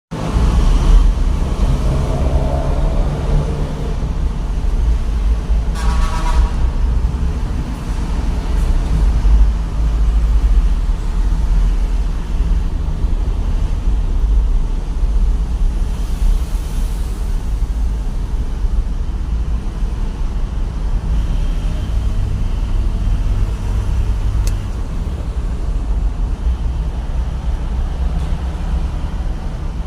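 Truck engine and road noise while driving: a steady, heavy low rumble.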